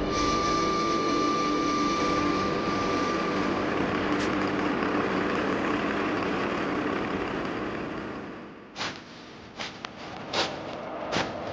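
A vehicle engine running steadily with a thin high whine at first, fading away about eight seconds in. A string of sharp clicks or knocks follows near the end.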